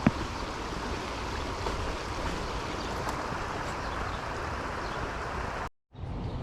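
Steady rush of flowing river water, with a single click right at the start. The sound drops out for a moment about five and a half seconds in and comes back quieter.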